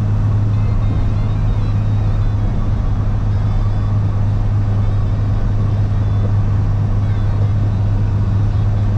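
Steady in-cab drone of a box truck cruising at about 70 mph on the highway: a constant low engine hum mixed with even road and wind noise.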